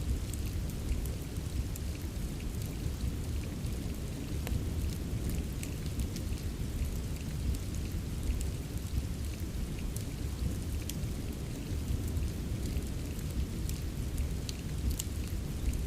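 Steady rain with a deep, constant low rumble, mixed with a wood fire crackling: scattered sharp pops and ticks throughout.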